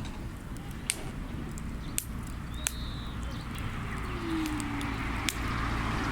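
Wood fire crackling: a few sharp pops from the burning logs over a steady low rumble.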